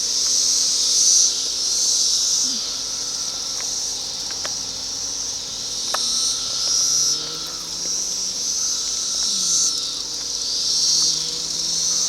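Chorus of Brood X 17-year periodical cicadas: a loud, dense, high-pitched buzz that swells and fades in waves.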